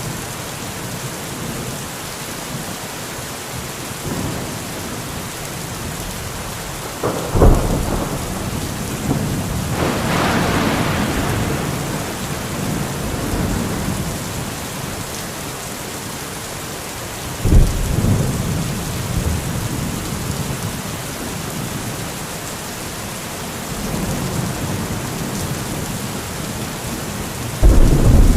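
Steady rain falling, with thunder: a sharp crack about a quarter of the way in followed by a long rumble, another crack past the middle, and a third loud crack right at the end.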